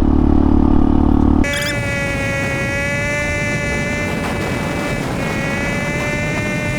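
Hawk 250 single-cylinder motorcycle engine running under way. About a second and a half in, the sound cuts abruptly to a quieter, steady whine that holds one pitch.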